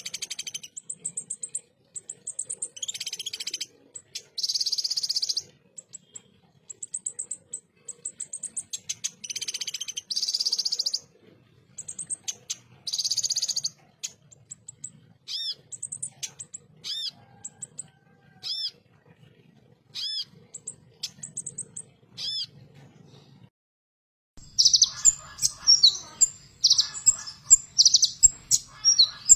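Kolibri ninja sunbird (konin) singing in harsh, rapid 'tembakan' bursts: dense high trills between thin chirps. Midway comes a run of separate short notes. After a brief break near the end, a louder, denser burst follows.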